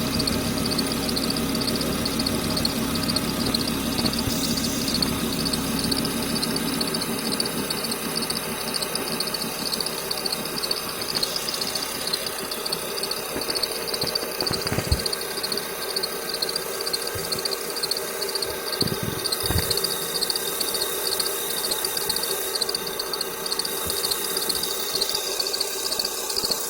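A bearing squeaking steadily as it turns: a constant high squeal over the machine's running noise, with a couple of brief knocks partway through.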